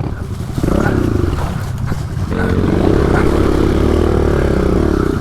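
Pit bike's small single-cylinder engine revving hard under acceleration. The pitch climbs about two seconds in, holds high, then eases off near the end.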